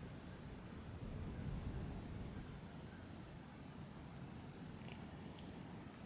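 Small songbirds at a feeder giving high, very short chip notes, about six of them at irregular intervals, the loudest near the end, over a low steady background rumble.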